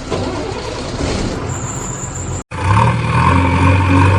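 Vehicle engine sound effect: a noisy rumble that cuts out abruptly about two and a half seconds in, then a louder, steady low engine drone.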